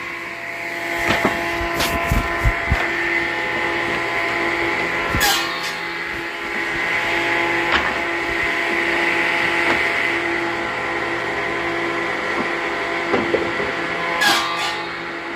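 Woodworking shop machinery running steadily, a saw's motor holding one even tone, with several sharp knocks of wood in between.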